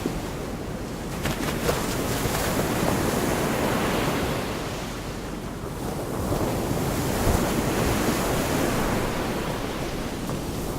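Gulf of Mexico surf washing onto the beach, a steady rushing that swells twice as waves break and wash in, with wind buffeting the microphone.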